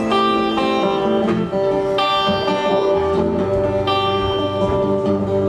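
Instrumental break of a song: an acoustic guitar strummed with a new chord about every two seconds, and a violin holding melody notes over it.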